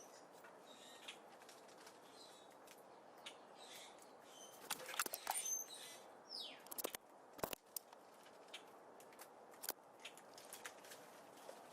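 Small birds at a seed feeder: scattered sharp taps and clicks of pecking at seeds, with a few short high chirps and one falling whistled note, busiest about five seconds in.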